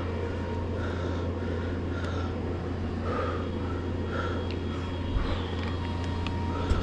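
Steady low engine hum with no change in pitch or level.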